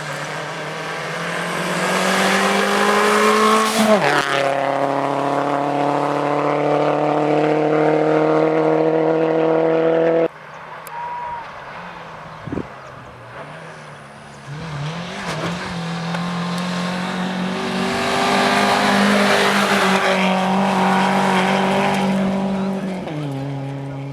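Rally car engine at high revs, rising as the car approaches, then dropping sharply in pitch as it passes about four seconds in and holding while it draws away. The sound cuts off abruptly near ten seconds. After a quieter stretch a rally car is heard again, approaching at speed and passing with a pitch drop near the end.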